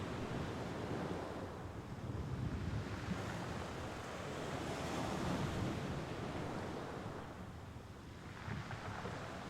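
Small sea waves washing onto the shore, the surf rising and falling in slow swells, with a new wave breaking near the end.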